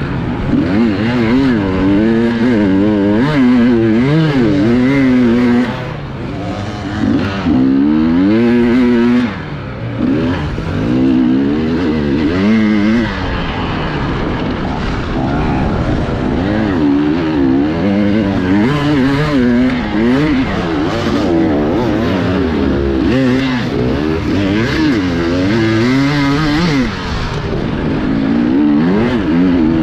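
Enduro motorcycle engine heard close up from the rider's own bike, its revs rising and falling constantly under throttle. Twice, about six and nine and a half seconds in, it briefly drops off as the throttle is closed.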